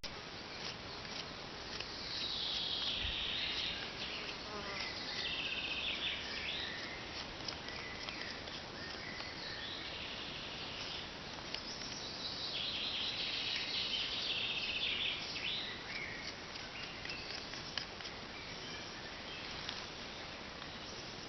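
Insects chirring, in patches of high buzzing trills that come and go, with scattered small ticks.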